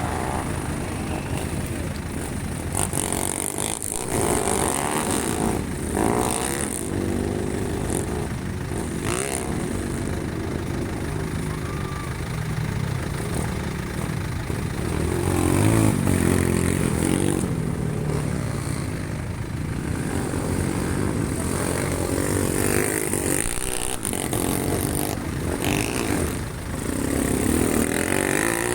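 Racing motorcycles' engines revving and passing, their pitch rising and falling, with several louder swells as bikes go by.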